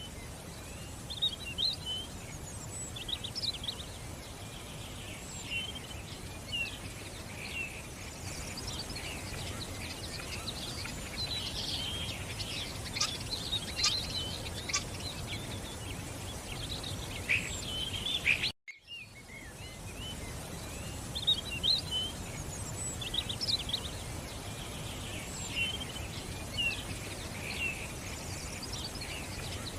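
Several birds chirping and twittering over a steady, even background rush, with a brief break in the sound about two-thirds of the way through.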